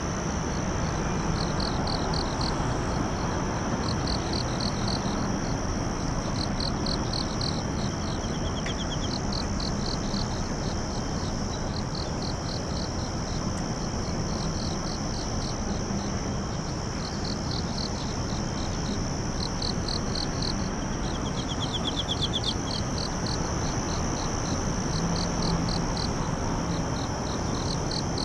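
Insects singing in chorus: a cricket's high chirps come in short quick groups, over a steady high-pitched continuous trill and an even background hiss. About eight seconds in and again near twenty-two seconds, a second, lower fast trill sounds briefly.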